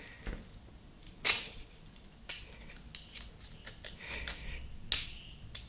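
Sharp clicks and light knocks from hand tools and parts being handled while a water pump is taken apart, about one a second, the loudest about a second in and another near the end.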